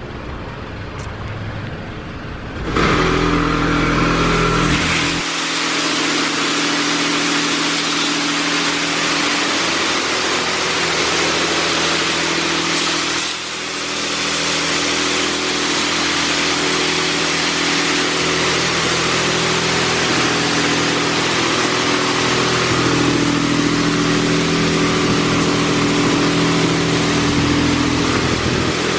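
Washworld High Velocity touchless car wash running: about three seconds in, a loud hiss of high-pressure water spraying the car starts over the machine's steady pump hum, and holds with a short dip partway through.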